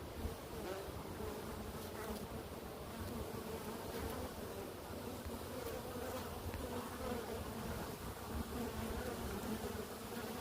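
Honey bees buzzing steadily in flight around the entrance of a swarm box, a busy stream of foragers coming and going from a newly settled swarm.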